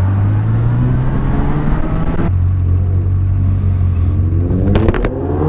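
Yamaha XJ600S inline-four motorcycle engine pulling hard through the gears: the revs climb, drop sharply about two seconds in at an upshift, then climb again after a couple of sharp clicks near the end.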